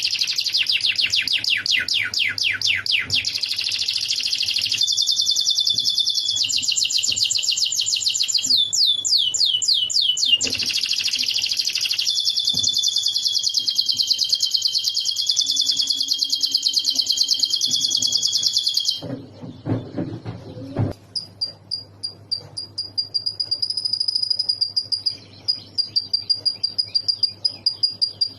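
Domestic canary singing a long, fast song of rapid trills and rolling phrases, a canary taught lovebird-style phrases. About two-thirds of the way in, the song breaks into sparser chips over a thin, steady high whistle.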